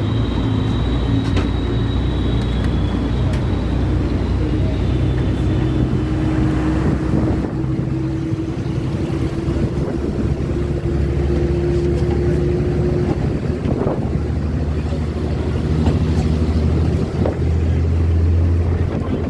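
A motor vehicle's engine runs steadily, with a low hum whose pitch drifts slightly, and a few scattered sharp taps.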